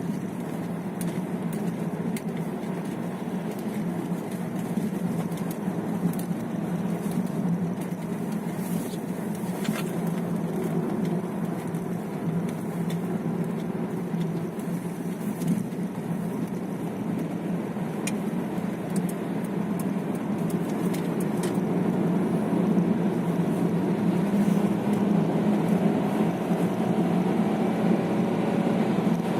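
Car driving on the road, heard from inside the cabin: steady engine and tyre noise, growing a little louder near the end.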